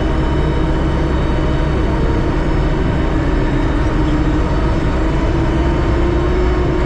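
Terex TLB-815 backhoe loader on the move: its diesel engine and drivetrain run steadily, loud, with a steady whine that slowly rises in pitch.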